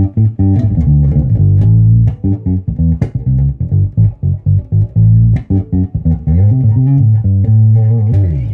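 Fender Precision Bass played through a Mesa Boogie Subway bass amp: a solo bass line of short, quickly stopped notes mixed with a few held notes, ending abruptly near the end.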